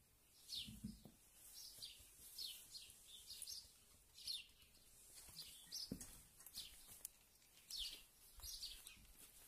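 A small bird chirping faintly, short high falling notes repeated irregularly and often in pairs. A single soft knock about six seconds in.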